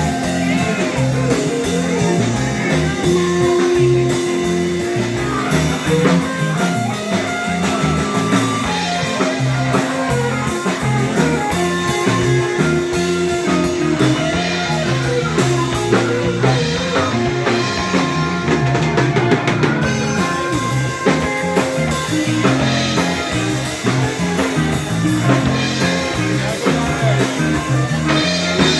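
A rock band playing live, electric guitar and bass over a drum kit in a long instrumental jam.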